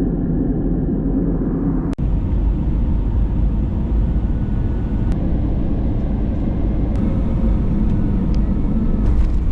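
Steady low rumble of a moving vehicle, with a short dropout about two seconds in.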